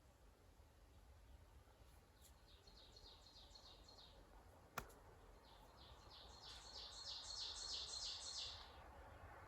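A songbird singing two phrases of quick, evenly repeated high notes, the second longer and louder than the first. One sharp click comes about halfway through, between the phrases.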